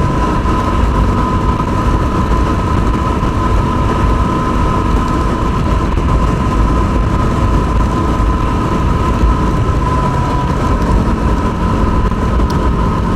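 Yamaha WR250R's single-cylinder engine running at a steady cruising speed, with wind rushing over the microphone and a steady high whine.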